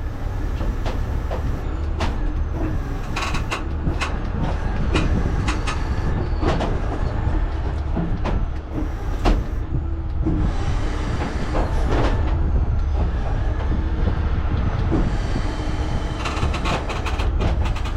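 Heavy tow truck's engine running steadily under the lift, with scattered metallic clanks and knocks from the underlift gear, thickening near the end.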